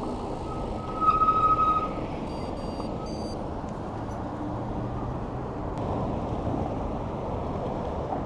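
Wind and road noise while riding an e-bike along a road. About a second in, a steady high tone sounds for about a second, followed by a few faint high beeps.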